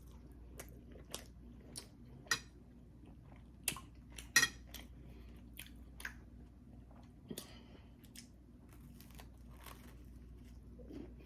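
Close-miked chewing of food, with irregular sharp crunches and mouth clicks, the loudest about four and a half seconds in.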